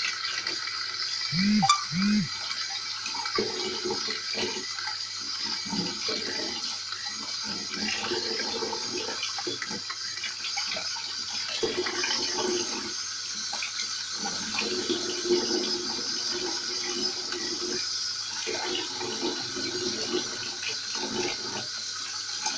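Kitchen tap running steadily into a sink, with knocks and clatter of things being handled under the stream. The water stops suddenly at the very end.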